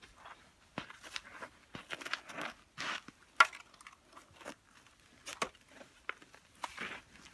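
Toy construction vehicles being handled, with loose crunchy material being scooped and poured into a plastic toy dump truck. It gives irregular scrapes, clicks and short crunches, with the sharpest click about three and a half seconds in.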